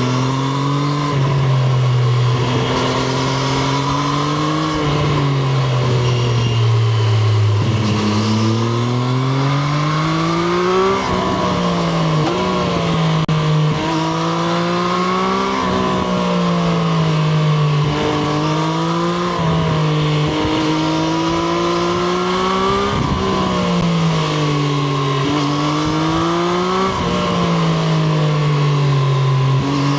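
Triumph Street Triple RS's 765 cc inline three-cylinder engine, heard onboard, repeatedly climbing in pitch under acceleration and dropping as gears change, with wind and road noise underneath.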